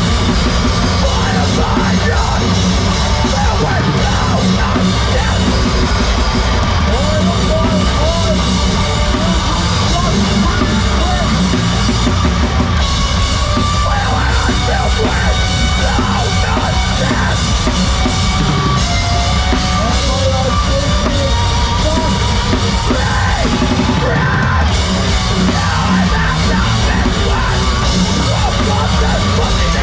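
Heavy rock band playing live, loud and unbroken, with a prominent pounding drum kit.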